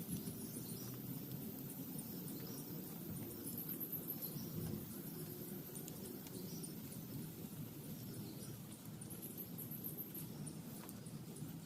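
Steady rain pattering on a tent, with repeated faint high-pitched chirps above it.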